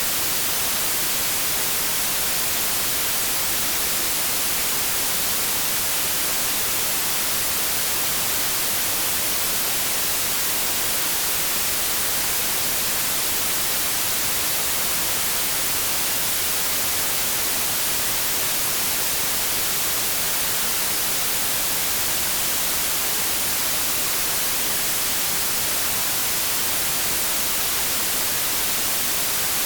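Synthetic white noise: a steady, unbroken hiss with most of its energy in the high frequencies.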